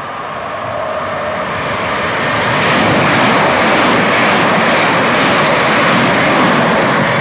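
A train running through the station, a loud rushing of wheels and air that builds over the first three seconds, then holds steady.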